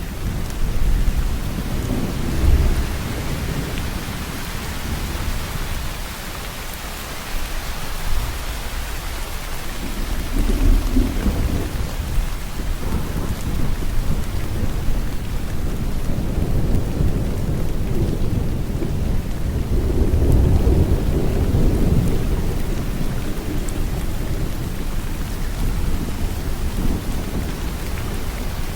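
Steady heavy rain falling on a surface, with low rolls of thunder rumbling up several times, the longest about two-thirds of the way through.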